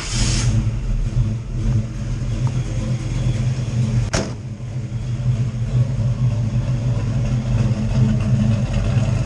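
1962 Chevy C10's BluePrint 383 small-block V8 running through a Black Widow Venom 250 exhaust: it fires up with a sudden burst at the start, then settles into a steady idle with a deep exhaust note. A single sharp click sounds about four seconds in.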